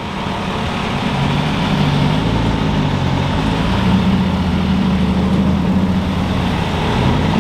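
A car engine running at low revs close by, its note rising a little in the first few seconds and then holding steady.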